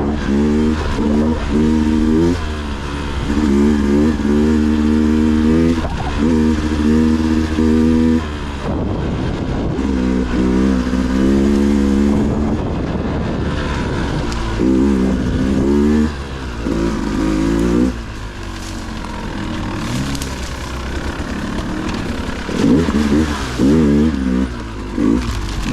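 Dirt bike engine revving in repeated bursts of throttle, its pitch rising and falling as the rider picks through rough trail.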